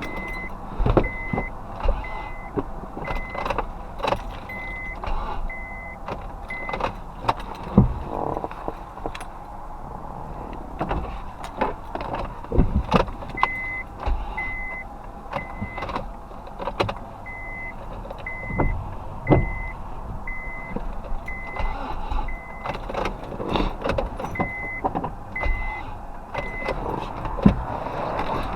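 A car's warning chime beeping about once a second in several runs, over irregular sharp knocks and clicks. The knocks are typical of the starter motor being tapped to free it on a no-crank fault.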